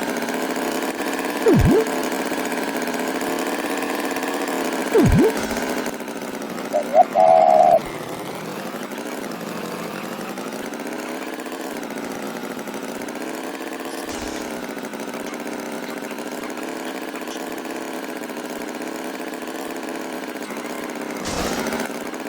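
Cartoon tractor engine sound effect running steadily, its pitch wavering slightly. Two brief swooping whistles come about 1.5 s and 5 s in, and a short high beep about 7 s in.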